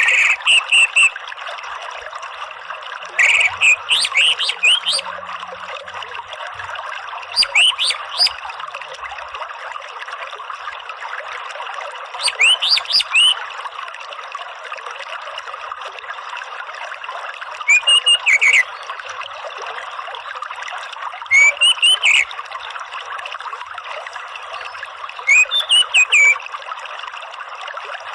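Orange-headed thrush singing short phrases of quick whistled notes, one phrase every four to five seconds, over a steady trickle of running water.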